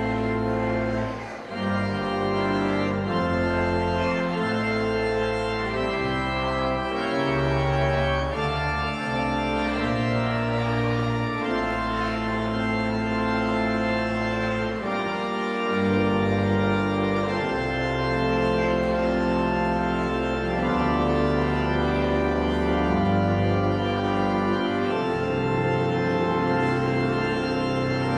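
Church organ playing the closing postlude: sustained chords over deep pedal bass notes, the harmony changing about once a second, with a brief drop in level about a second and a half in.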